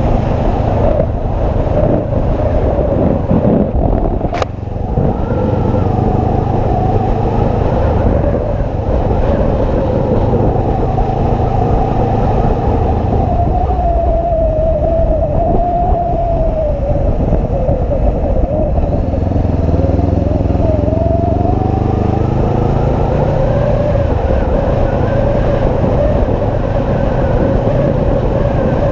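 Motorcycle engine running under way, its note rising and falling with speed over a steady low rumble. One sharp click about four seconds in.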